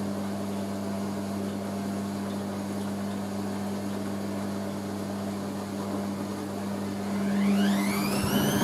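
Hoover A3060 washing machine's motor turning the drum of towels slowly and steadily with a hum, distributing the load before the final spin. Near the end the motor whine rises sharply in pitch and grows louder as the drum ramps up toward spin speed.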